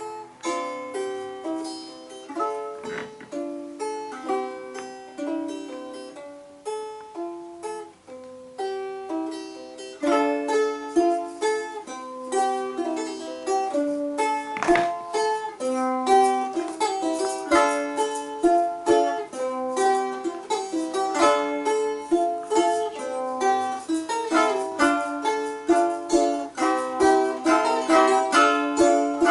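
Balalaikas playing a tune in quick plucked and strummed notes; the playing gets louder and busier about ten seconds in.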